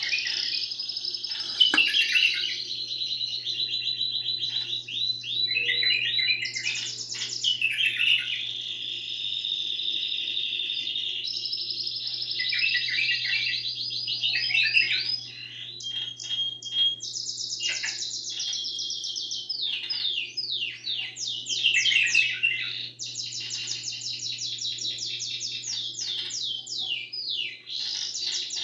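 Domestic canary singing a long, almost unbroken song of rapid high trills and rolls of evenly repeated notes, switching from one roll to the next every few seconds.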